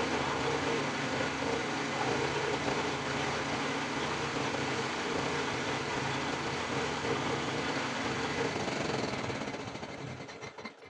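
Handheld electric power tool running steadily against wood, then winding down and stopping near the end.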